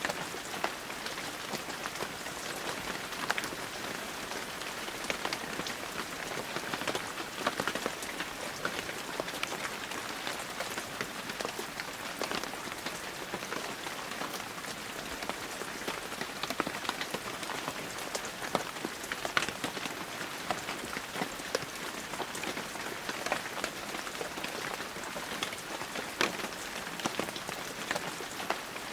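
Heavy, steady rain falling, with a dense patter of individual drops striking a surface close by.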